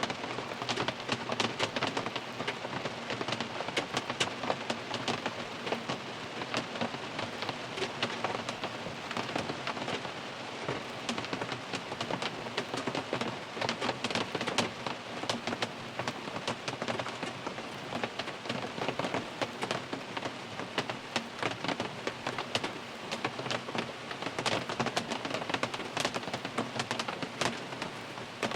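Steady rain falling on a car, heard from inside the cabin: a dense, even patter with many sharp separate drop hits.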